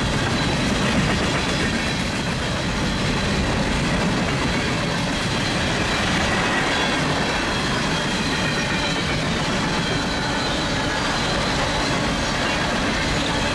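Union Pacific freight train's cars rolling steadily past at close range, with a faint high squeal from the wheels.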